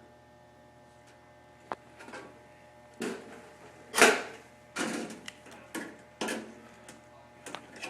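Thin sheet metal pieces clanking as they are handled and set down: a single click, then half a dozen sharp metallic knocks, the loudest about four seconds in.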